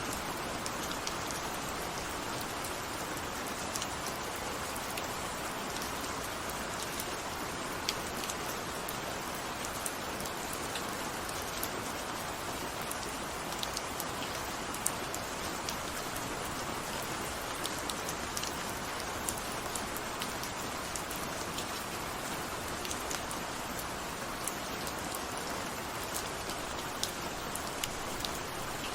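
Steady rain falling, an even hiss with scattered individual drops ticking on a hard surface.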